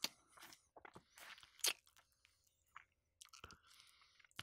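Someone biting and chewing crispy fried chicken: irregular crunches of the breading, with a louder crunch about a second and a half in.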